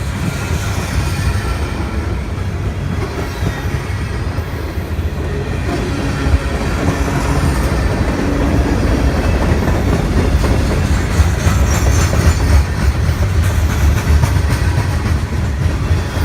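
A train passing, its wheels clattering over the rail joints, getting louder through the second half.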